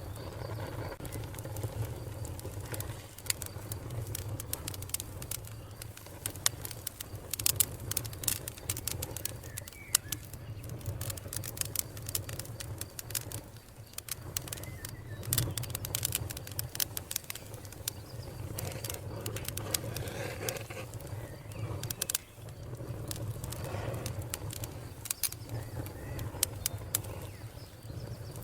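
Wood fire burning in a fireplace: a steady low rumble of flame under irregular sharp pops and crackles of the burning wood, which come thickest about a third of the way in and again around the middle.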